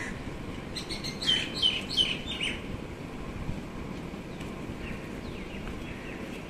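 Birds chirping: a quick run of about five loud, short chirps in the first couple of seconds, then fainter scattered calls over a steady low background hum.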